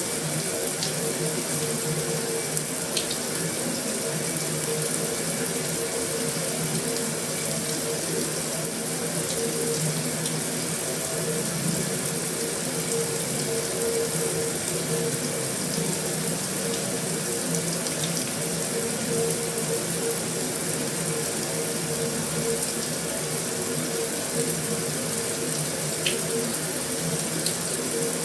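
Heavy rain on a metal roof: a steady, even hiss with a few faint sharper drop ticks.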